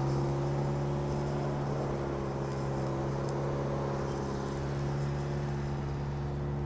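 Subaru Sambar kei truck's small EN07 four-cylinder engine idling steadily, an even, unchanging hum.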